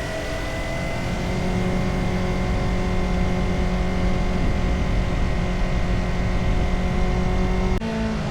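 Motorcycle engine running under way, its note rising slightly at first and then holding steady. Near the end the engine note drops abruptly.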